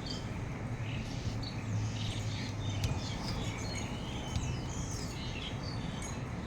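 Several small birds chirping and calling in short scattered notes, over a steady low rumble and hiss of storm-time background noise.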